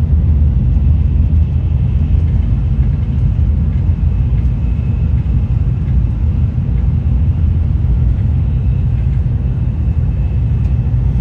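Shinkansen bullet train running at speed, heard from inside the passenger car as a steady low rumble.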